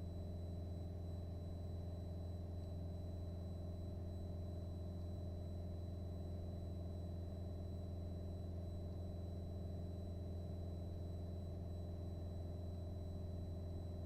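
Piper PA-28 light aircraft's piston engine and propeller running steadily in the climb, heard as a constant low drone, with a faint steady high-pitched whine.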